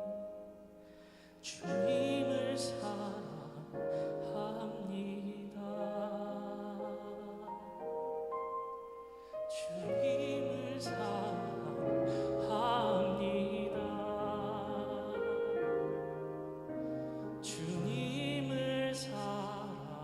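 Classical-style solo singing with accompaniment: a voice holding long notes with vibrato, in phrases that begin about a second and a half in, about ten seconds in and again near the end.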